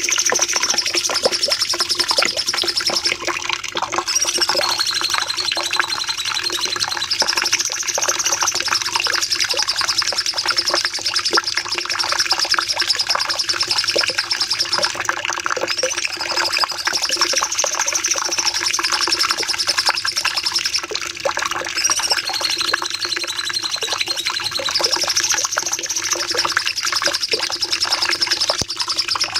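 Cucak cungkok songbird giving long, rapid, high trilled "nembak" phrases, repeated about every 8 to 9 seconds, each dropping to a lower note at its end. A steady low hum runs beneath.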